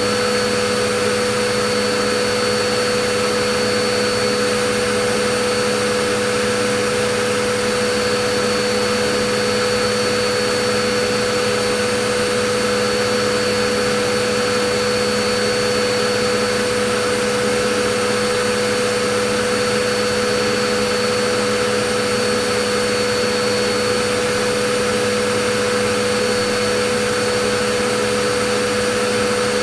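Vacuum cleaner motor running at a constant speed: a steady whooshing hiss with a fixed motor hum and whine, unchanging throughout.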